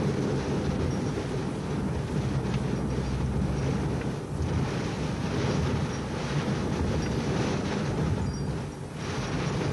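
Steady, dense low rumble inside a car driving through a typhoon: engine, tyre and wind noise blended together.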